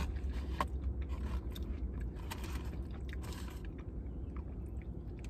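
Close-up eating sounds: chewing and mouth noises with small clicks, and a plastic spoon scraping food from a takeout container. A steady low hum lies under them.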